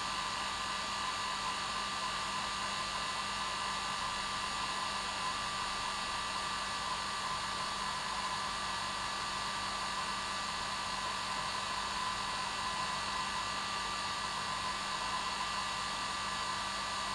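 Hair dryer running steadily, an even rushing hiss with a steady hum and whine.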